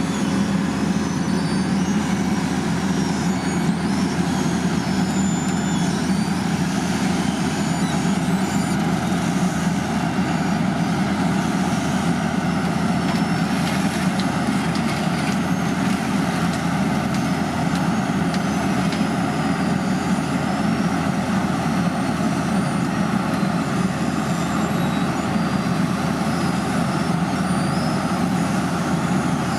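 Heavy diesel construction machinery running steadily at a constant engine speed, with faint short high squeaks over the drone.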